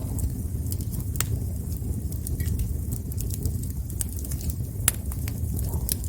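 Wood campfire burning: a steady low rumble with scattered sharp crackles and pops, two of them louder, a little under five seconds in and near the end.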